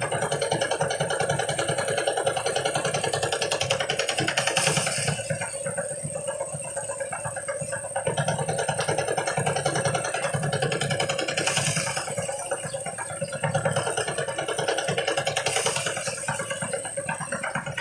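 Engine-driven rice threshing machine running steadily with a fast, even pulse, and a brief rushing hiss three times.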